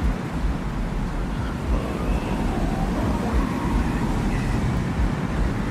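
Desert wind ambience from a designed soundscape: a steady deep rumble of wind, with faint wavering high tones drifting above it.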